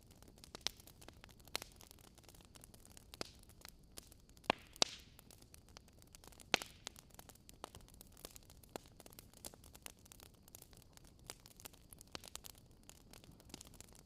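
Fireplace fire crackling: a faint steady hiss with scattered sharp pops and snaps at irregular intervals, the loudest few near the middle.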